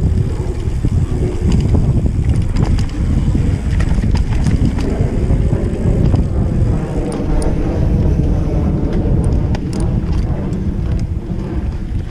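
Mountain bike riding over a dirt trail: wind on the microphone and tyre rumble, with scattered clicks and rattles of the bike over rough ground.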